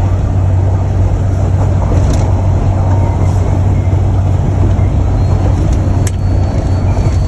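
A car travelling, with a steady low drone of engine and road noise.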